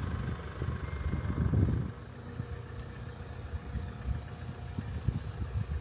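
Low, uneven rumble of a vehicle on the move, louder for the first two seconds and then easing off.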